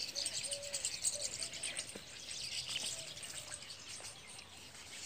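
Birds chirping faintly, with a few short soft calls in the first second or so and a single light click about two seconds in.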